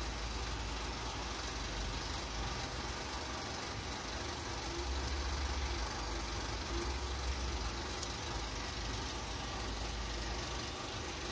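Rain falling steadily onto a puddle on an asphalt road, an even hiss of drops, with a low rumble underneath.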